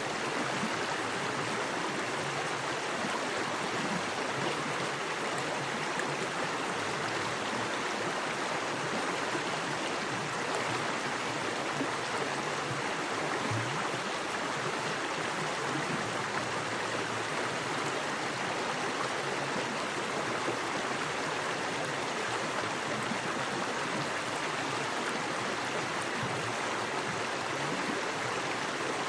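Small creek running fast over rocks: a steady, even rush of water.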